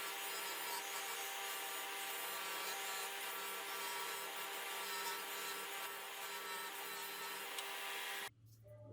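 Motor-driven tool grinding or sanding metal, running steadily with a constant whine, then cutting off suddenly near the end.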